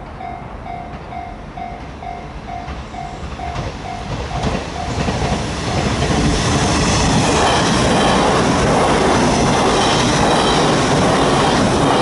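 A Japanese level-crossing warning bell rings in a steady repeating ding, then is drowned out as a 485-series electric train set passes close by. The train noise builds from about four seconds in, stays loud, and drops away right at the end.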